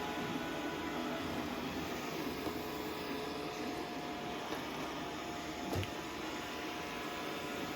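Robot vacuum cleaner running with a steady whir and hum, with one short knock a little before six seconds in.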